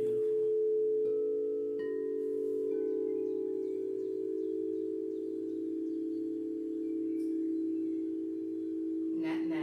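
Singing bowls ringing: several low, steady tones held together and sustained, one changing about two seconds in. Fainter, higher, chime-like notes come and go over them.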